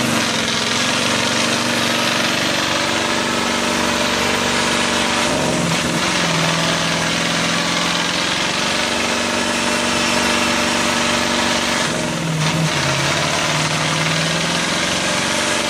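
Competition truck's engine running steadily, its note shifting briefly twice, about five and twelve seconds in.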